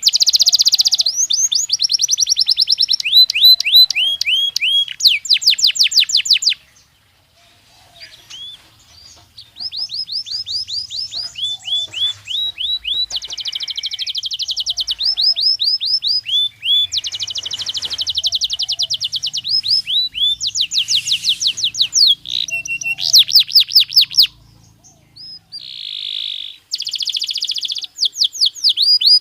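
Belgian canary singing: fast trills of repeated downward-sweeping notes and rolling buzzy tours, in phrases of a few seconds separated by short pauses, with a longer pause about seven seconds in.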